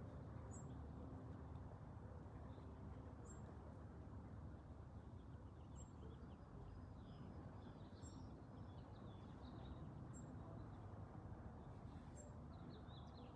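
Quiet outdoor background of steady low rumble, with faint bird twittering from about halfway and again near the end, and faint high ticks every couple of seconds.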